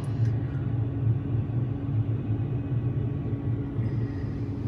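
Steady low hum with no clear events over it.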